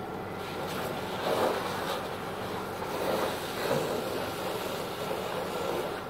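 A vehicle engine idling steadily, with irregular swells of rushing, hissing noise rising over it three times.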